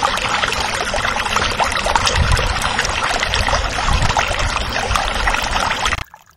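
Water splashing and sloshing in a plastic bucket as a hand stirs and pushes a plastic toy under the surface, over a low rumble. It cuts off suddenly near the end.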